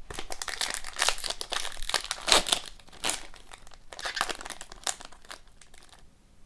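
Crinkling and rustling of a trading-card pack's foil wrapper and cards being handled, in irregular bursts. It cuts off abruptly about six seconds in.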